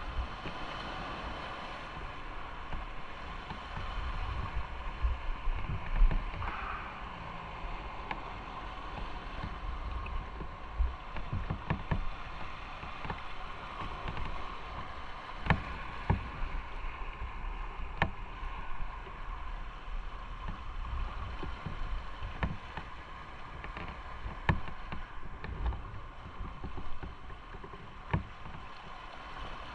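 Motorcycle running steadily under way, with wind and road noise on the microphone and scattered short sharp clicks.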